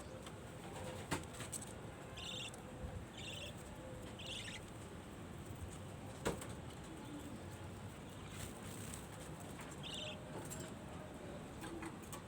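Small cage birds, budgerigars, giving short high chirps now and then over a steady background hiss, with two sharp clicks, one about a second in and one midway.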